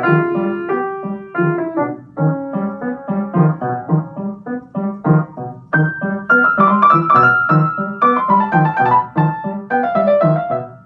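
Solo piano playing: a low note repeated at a steady pace under shifting chords, with the upper part moving higher and busier about six seconds in.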